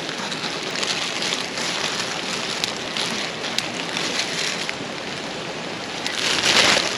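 Steady rushing hiss of water, with a brief louder swell near the end.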